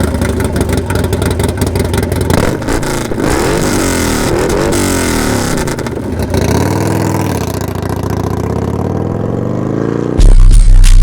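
Harley-Davidson Sportster Forty-Eight's air-cooled 1200 cc V-twin through an SP Concepts Lanesplitter aftermarket exhaust, running and revved several times, each rev rising and falling in pitch, then settling to a steadier idle. About ten seconds in, loud music with a heavy bass beat cuts in over it.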